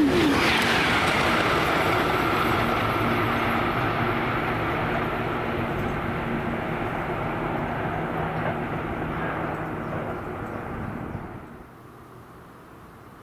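Eurostar Class 373 high-speed train passing at speed: a loud rush of air and wheel noise with a whine that drops in pitch, fading steadily as the train recedes, then cutting off sharply about eleven seconds in.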